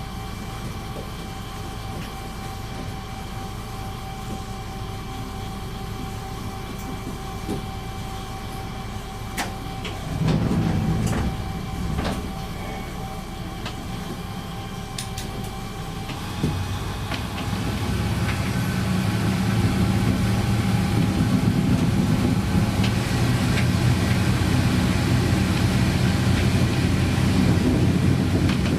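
Diesel railcar's DMH17-series engine idling steadily, with a couple of knocks about ten to twelve seconds in; then, a little past halfway, the engine is opened up and runs much louder and stays loud as the railcar pulls away.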